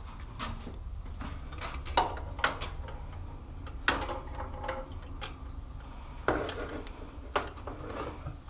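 Tools and bike parts clinking and knocking, a handful of sharp metallic knocks spaced a second or more apart, as the rear wheel and axle of a monkey bike are fitted and tightened. A steady low hum runs underneath.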